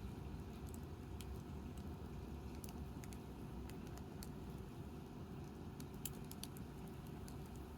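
Wood campfire burning, its firewood giving off scattered sharp crackles and pops, with a cluster of them about six seconds in, over a steady low rumble.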